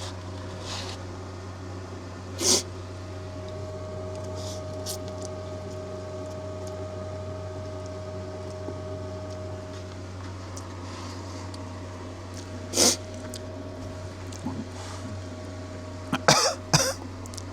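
A man coughing a few times from the heat of spicy ramen, over a steady low hum. There are single short coughs about two seconds in and again near thirteen seconds, then a quick run of coughs near the end.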